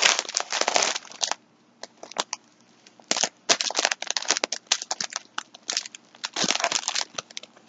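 Plastic yarn pack being handled and crinkled, in several bursts of rustling and crackling with short pauses between.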